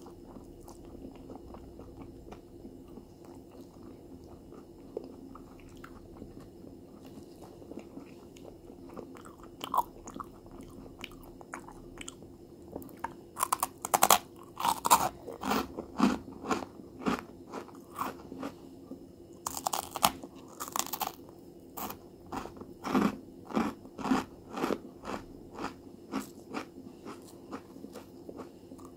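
A crunchy fried snack being bitten and chewed. Faint mouth sounds at first, then from about ten seconds in runs of sharp, crisp crunches, loudest around the middle, with short pauses between the runs.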